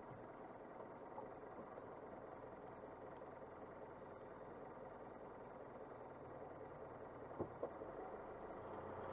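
Faint steady hum of a car driving along a road, engine and road noise together. There are two short clicks about seven seconds in, and the level rises gradually toward the end.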